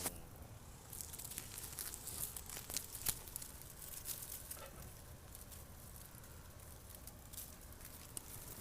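Cucumber leaves and vines rustling and crackling as they are pushed aside by hand, a run of quick crinkly snaps, busiest in the first half and sparser after.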